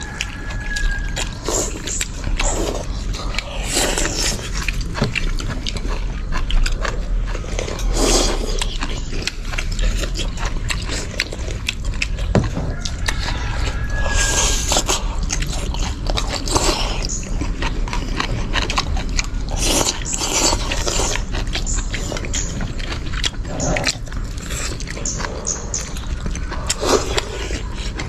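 People eating noodles close to the microphone: steady chewing and small clicks, with a loud slurp every few seconds.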